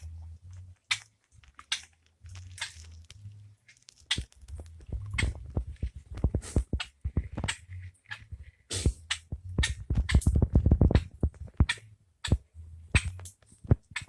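Birds pecking at food on a hard surface: irregular sharp taps and clicks, coming thick and fast through the middle, over a faint low hum.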